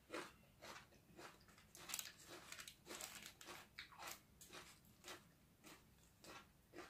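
Faint close-miked chewing of crunchy food, a steady run of crisp crunches about three a second.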